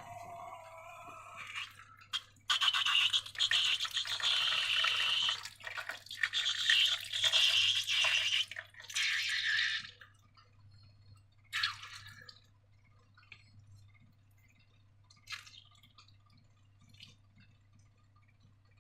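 Slime being squished and worked by hand: a run of wet, sticky squelching and crackling for several seconds, then a few short, separate squishes. A brief squeak, like stretched balloon rubber, at the start.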